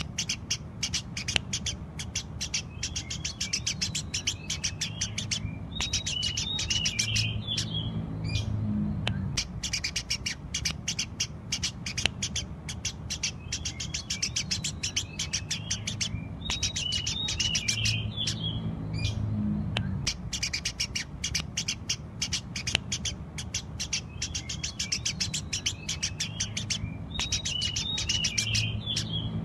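Eurasian tree sparrow chirping rapidly and without pause, many short sharp chirps a second. About every ten seconds there is a stretch of lower, busier twittering.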